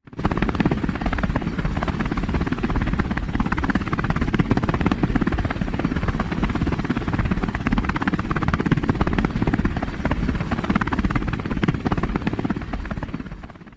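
Helicopter running steadily with a rapid chopping of the rotor blades over the engine noise. It starts abruptly and fades out near the end.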